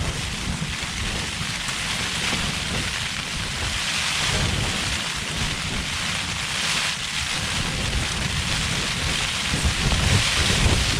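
Heavy wind-driven rain pattering steadily on the fabric of a Lanshan 2 Pro trekking-pole tent, heard from inside, over a low uneven rumble of gusting wind buffeting the tent.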